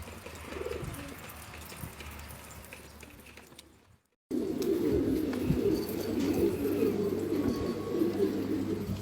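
Domestic pigeons cooing. After a brief cut to silence about four seconds in, it is a louder, dense chorus of many birds cooing at once.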